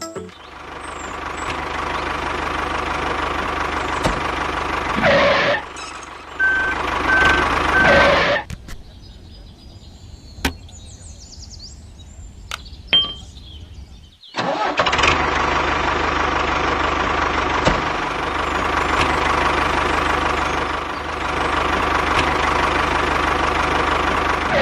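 A motor running steadily. It drops away about eight seconds in and starts up again about fourteen seconds in.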